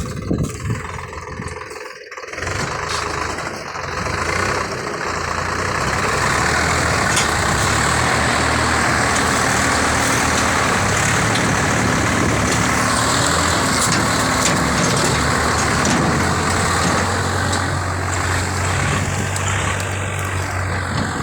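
Swaraj tractor's diesel engine running, picking up revs about two seconds in and then held steady and loud.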